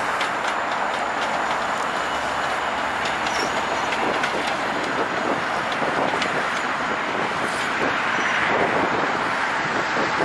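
Commuter train of bi-level coaches rolling past with a steady noise of wheels on rail, getting a little louder near the end as the diesel locomotive at the rear goes by.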